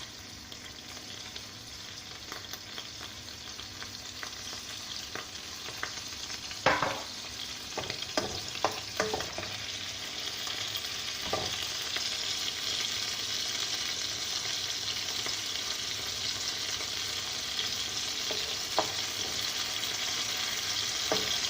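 Chilli sauces, Schezwan chutney and garlic frying in oil in a hot wok. The sizzle grows gradually louder, and a few sharp knocks and scrapes come from the mixture being stirred against the wok.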